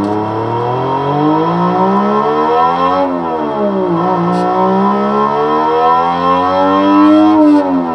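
Homemade electronic engine-sound generator imitating a 1JZ-GTE inline-six exhaust, accelerating at mid revs. The pitch climbs for about three seconds, drops back, then climbs again and falls away near the end, like a car pulling through upshifts.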